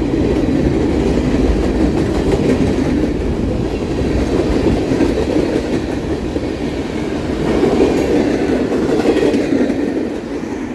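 Norfolk Southern freight train's cars rolling past, a steady rumble of steel wheels on the rails that eases slightly near the end.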